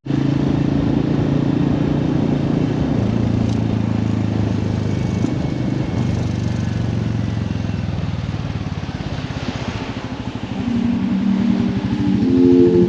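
Royal Enfield motorcycle engine running steadily under way, its pitch rising near the end as it accelerates.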